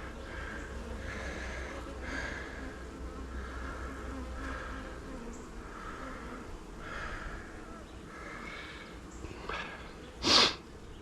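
Honeybees buzzing around an open hive, the buzz swelling and fading in short waves. About ten seconds in, a brief loud noise cuts across it.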